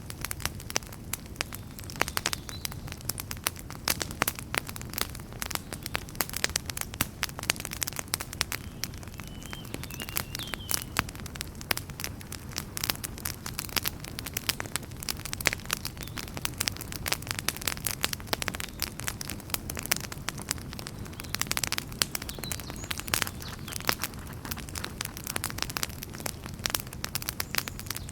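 Wood campfire crackling, with frequent irregular sharp snaps and pops over the steady low rush of the flames.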